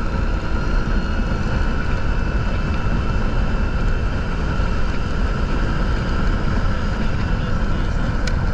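Motorcycle under way: steady engine hum under heavy wind rumble on a GoPro Hero 10's built-in microphone.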